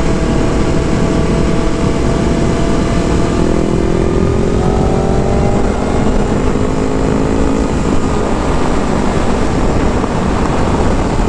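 Motorcycle engine running under way beneath heavy wind rush; its note climbs steadily for a few seconds midway, then is lost under the wind.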